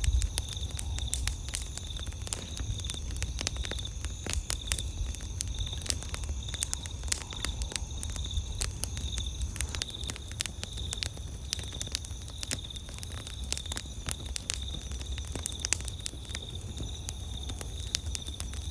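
Wood campfire crackling, with many sharp pops and snaps over a low steady rumble. A steady high insect trill runs underneath.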